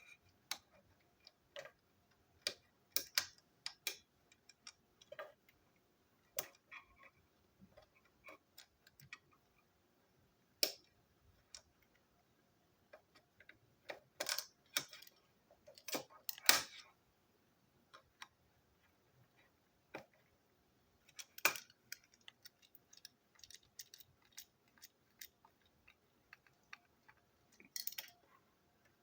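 Irregular sharp clicks and clacks of plastic toy train parts being handled, pulled apart and snapped together, loudest in a cluster around the middle and in one sharp click a little later.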